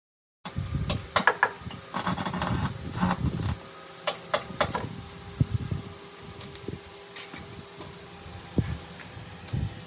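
Workshop clatter: irregular sharp knocks and clicks, as of metal truck parts being handled and fitted, over a steady mechanical hum. The knocks are densest in the first few seconds and thin out after that.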